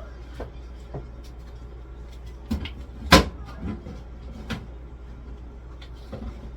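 Knocks and clunks of groceries and containers being put onto refrigerator shelves and the fridge being handled while it is restocked, a handful of separate knocks with one sharp bang about three seconds in.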